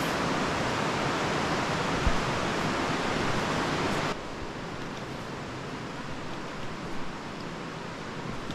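Steady rushing noise of the creek's water flowing through the cave, which drops suddenly to a quieter level about four seconds in.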